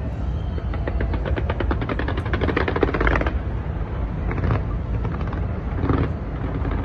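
Fireworks going off: a fast crackling string of bangs, about ten a second, for a couple of seconds, then a few single bangs over a steady low rumble.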